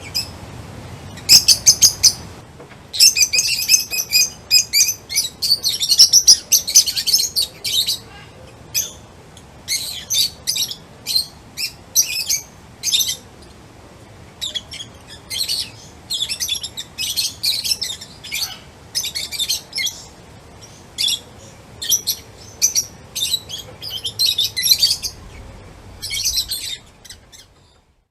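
Small songbirds chirping and twittering in quick, high-pitched bursts, several calls overlapping in busy clusters.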